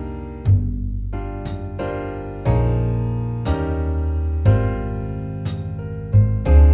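Slow jazz backing track with no melody: piano chords over a bass line, a new chord and bass note struck about once a second, at 60 beats a minute.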